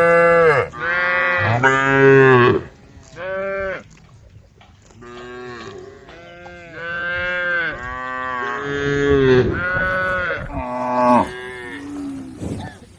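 Several cows mooing one after another and over each other: long drawn-out calls of differing pitch, with short pauses between them, as the cows call to the herd.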